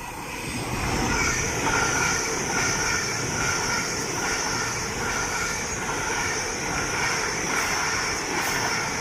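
A Great Western Railway IET, two Class 800 units coupled, passing through the station. Its wheels and motors make a dense rushing noise that builds over the first second and then holds steady, with a steady high whine above it.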